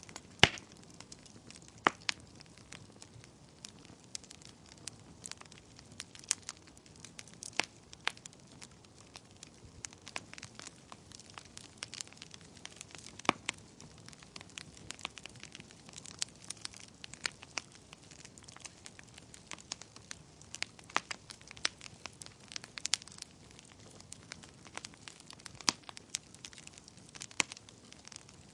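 Wood fire crackling, with irregular sharp pops and snaps over a faint steady hiss; the loudest pop comes about half a second in.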